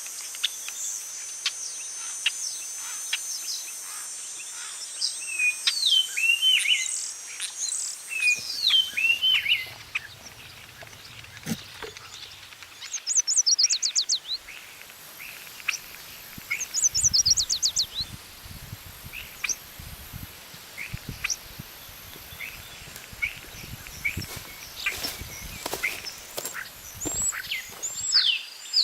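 Several wild birds singing and calling in woodland: clear down-slurred whistles, then quick rapid trills about halfway through, and a fast run of notes at the very end. A run of soft low thumps or rustles comes and goes through the second half.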